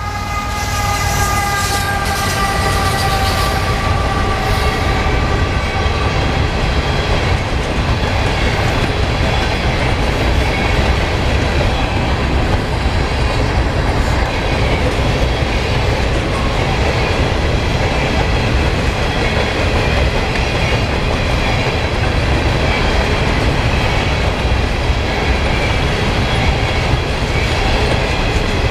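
Freight train of covered grain hopper cars rolling past close by: a steady heavy rumble and clatter of steel wheels on the rails, with faint high wheel squeal. In the first few seconds a chord-like tone, most likely the lead locomotive's horn trailing off, dies away and drops slightly in pitch.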